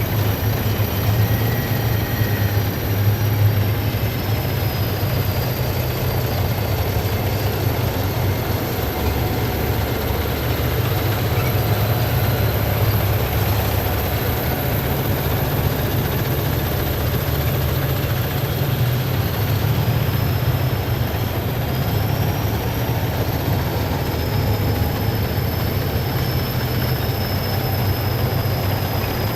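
Heavy military vehicles passing in a column: a steady, loud, deep engine rumble with a thin high whine above it that slides slightly in pitch.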